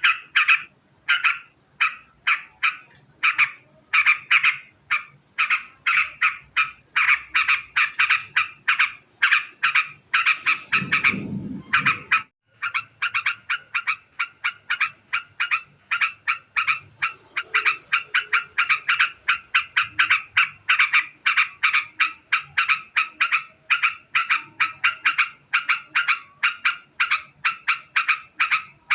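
Yellow-vented bulbul (trucukan) giving its long, very fast chattering call. Short sharp notes are repeated in a continuous string, about four a second in the second half. A brief low rumble about ten seconds in is followed by a short break in the calling.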